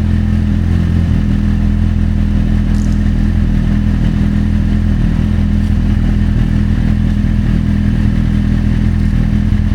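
Kawasaki Z800's inline-four engine with an Akrapovic exhaust idling steadily on a cold start, its pitch and loudness holding even without any revving.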